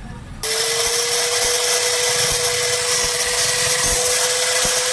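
Angle grinder switched on about half a second in, then running at full speed with a steady, even whine; its bearings have just been changed.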